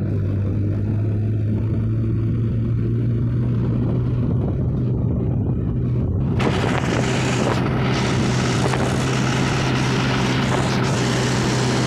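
Tractor engine running steadily, a low even drone, while hauling a load of crushed stone from a crusher. About halfway through, a louder, broad rushing noise joins the engine and stays.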